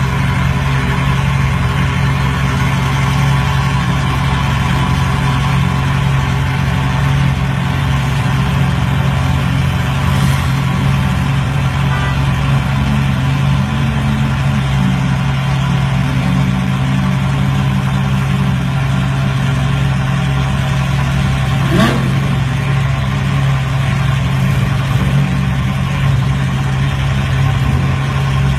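A car engine idling steadily with a deep, even hum. Partway through there is one brief sharp sound.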